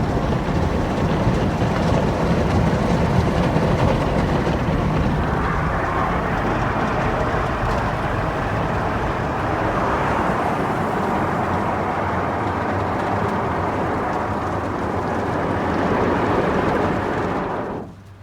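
Belanger FreeStyler automatic car wash running: a loud, steady rush of machine and water noise that cuts off abruptly near the end, leaving a faint low hum.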